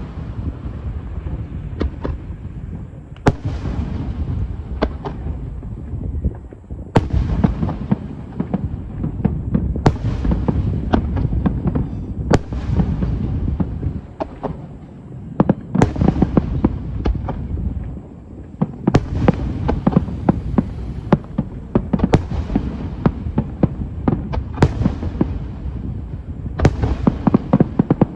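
Fireworks display: aerial shells bursting in a steady series of sharp booms every two to four seconds, with smaller crackling bursts between them over a continuous low rumble.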